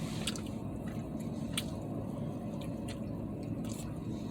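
Steady low rumble inside a truck cab, with a few faint clicks.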